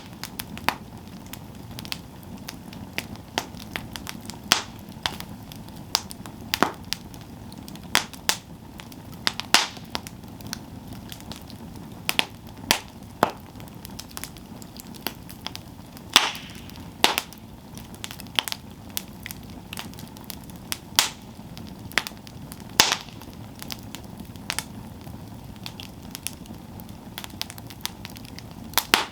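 Wood campfire burning with a steady low rush of flame and irregular sharp crackles and pops of burning wood, some of them louder snaps.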